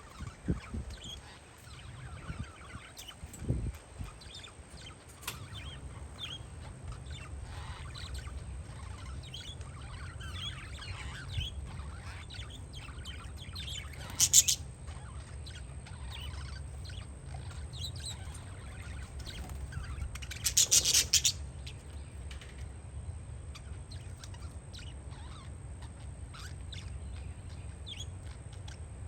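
Parakeets chirping, with many short calls scattered throughout, over a steady low rumble of wind on the microphone. Two louder harsh bursts stand out, one about halfway through and a longer one about two-thirds of the way in.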